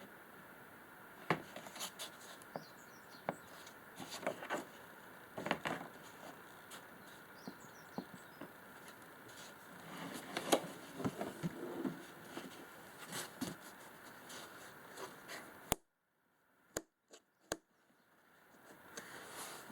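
Scattered light clicks, taps and knocks of something being handled, over faint steady room noise. The drill is not running. Near the end the sound cuts to dead silence for a couple of seconds, with a few isolated clicks.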